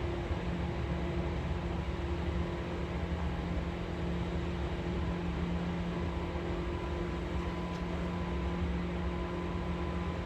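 Electric commuter train running at steady speed, heard from inside the passenger car: a constant rumble and rush of wheels on rail with a steady low hum from the running gear.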